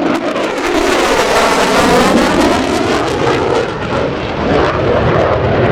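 Military jet fighter making a loud low pass, its engine noise sweeping in pitch as it goes by.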